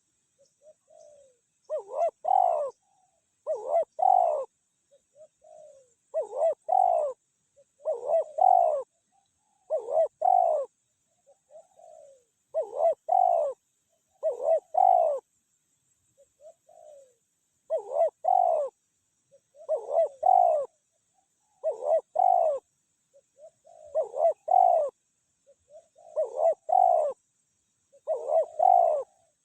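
Spotted dove cooing in a steady series: each phrase is a soft lead-in note followed by a louder double coo, repeating about every two seconds, with a slightly longer gap about halfway through.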